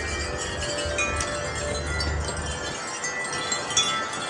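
Wind chimes ringing busily in a strong gust of wind, many tones overlapping and clanging together. Low wind rumble on the microphone in the first half.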